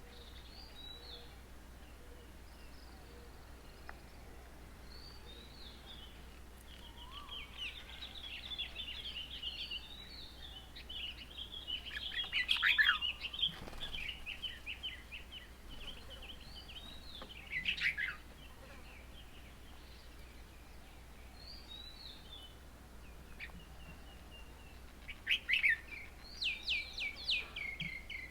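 Several birds calling and chattering in short high-pitched bursts, loudest a little before halfway, with a few quick falling calls later and a busy run of calls near the end.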